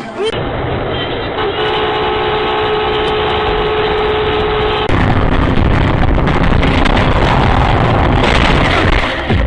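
A car horn held for about three seconds over traffic noise, then a louder stretch of road and engine noise.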